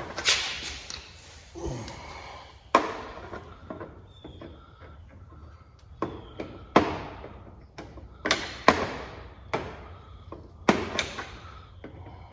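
A string of about nine sharp clacks and knocks, each with a short ring: hand tools and hard plastic and metal parts knocking together as fasteners and light-housing trim are pried and pulled off a pickup's front end.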